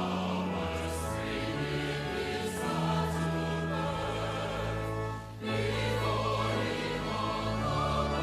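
Church choir singing a hymn with organ accompaniment, held low organ notes underneath. About five seconds in, the sound dips briefly at a break between phrases.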